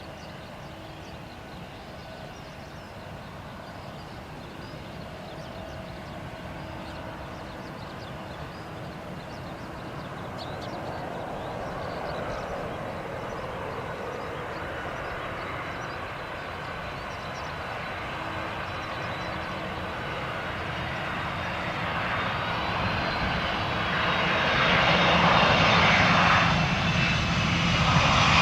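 Boeing 767 jet airliner coming in to land, its engine noise growing steadily louder as it approaches and loudest near the end, with a faint steady whine running through it.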